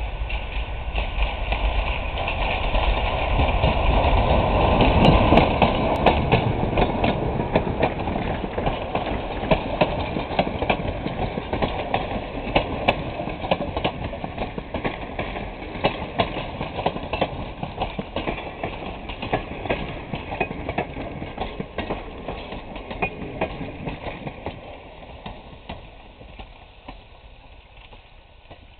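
A passenger train passes close by. The locomotive's engine grows loud and peaks about five seconds in. Then the coaches go by with a rapid clatter of wheels over the rail joints, and the sound fades as the train draws away.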